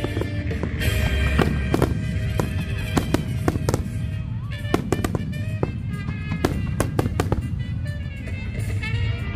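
Fireworks shells bursting in quick, irregular succession, sharp bangs over a low rumble, with music playing underneath.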